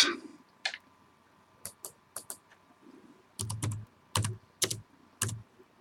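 Typing on a laptop keyboard: irregular keystrokes, a few light taps and then a quicker run of heavier strokes in the second half.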